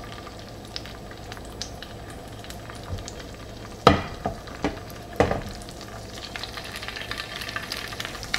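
Slices of pressed firm tofu going into hot oil in a cast-iron skillet, which sizzles and spatters. Two sharper knocks come about four and five seconds in as pieces land in the pan. The spattering gets denser near the end as more tofu goes in.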